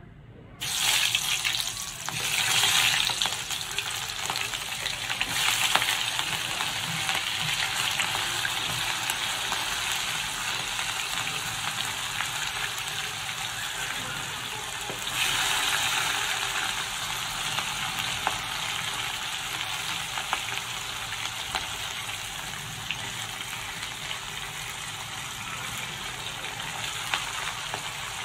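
Red onion wedges and then cut red chillies dropped into hot oil in a wok, sizzling. The sizzle starts suddenly about a second in and surges each time a handful goes in, again around fifteen seconds, then settles into a steady frying hiss.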